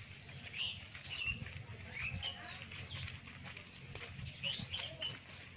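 Birds chirping in short calls that swoop up and down, roughly one every second, over a low steady hum.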